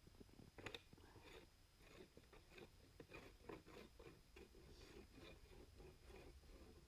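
Faint, quick crunching footsteps, about two to three steps a second.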